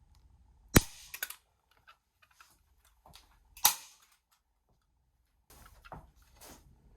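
Hand staple gun snapping twice, about three seconds apart, with smaller clicks and handling rustle in between.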